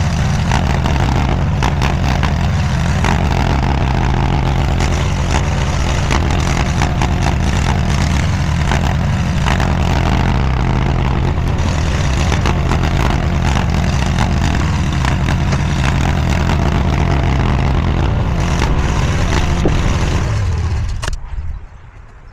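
Diggit SCL850 stand-behind mini skid steer's engine running steadily at working speed, with rattling and clanking from the machine as it moves dirt. The engine sound drops away suddenly near the end.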